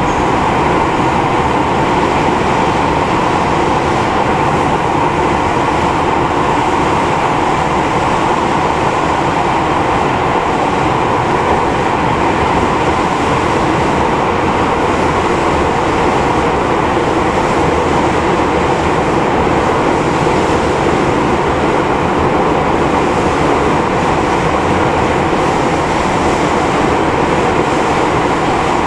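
Steady running noise inside a JR 205 series 5000 subseries electric commuter car in motion: wheels rumbling on the rail and motor noise, loud and unchanging throughout.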